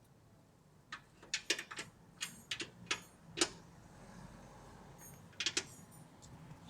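A string of sharp clicks and knocks from hand tools being worked on the vehicle's steering and suspension parts: about a dozen between one and three and a half seconds in, then a few more a little before the end.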